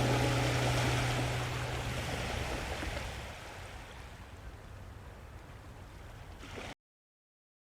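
A held music chord dies away over a steady wash of water noise, which slowly fades down and then cuts to dead silence about seven seconds in.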